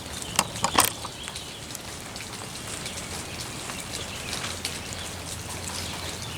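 Steady light rain falling, an even hiss, with a few sharp ticks in the first second.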